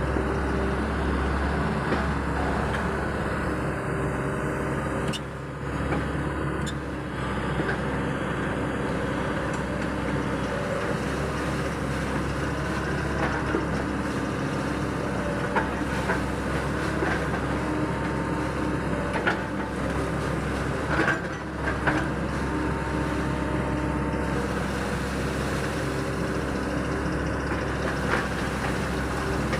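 Excavator's diesel engine running steadily, with a few sharp knocks and two brief dips in level.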